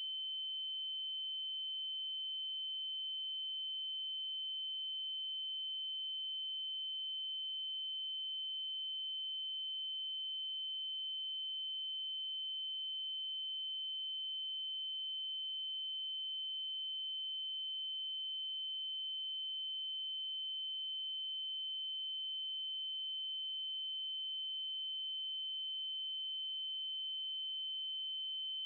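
Steady electronic test tone: a 3072 Hz triangle wave, one high-pitched unchanging pitch with faint overtones, held without a break.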